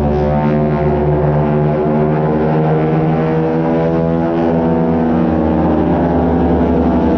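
Aircraft engine droning steadily and loudly, its pitch shifting slowly.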